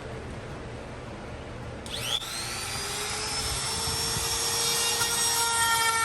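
Electric wood router switched on about two seconds in, its motor whine rising quickly as it spins up and then holding a high, steady whine.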